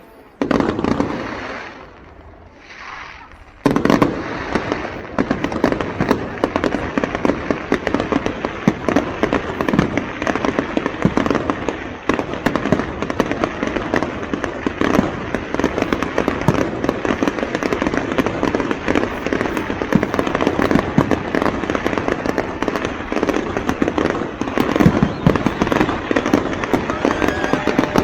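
Fireworks going off: a sharp bang about half a second in that fades away, then from about three and a half seconds a dense, continuous barrage of rapid bangs and crackling.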